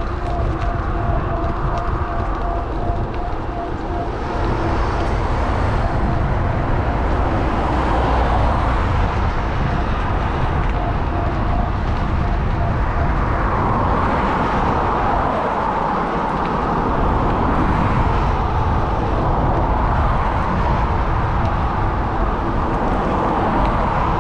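Wind rumbling over an action camera's microphone on a moving electric bike, with road traffic going by. A faint steady whine sounds in the first few seconds, and the traffic noise swells in the second half.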